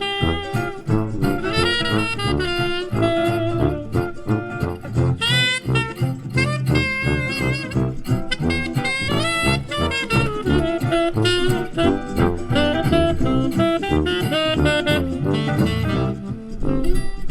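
Live hot club jazz band playing: a fast, running lead solo over a steady pulse of rhythm guitar and double bass.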